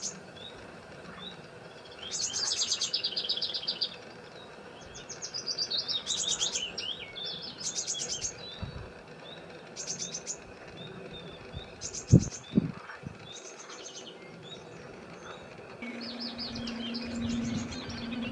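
A songbird singing in repeated short phrases of fast, high trills, a phrase every second or two. Two loud thumps come about twelve seconds in, and a low steady hum joins near the end.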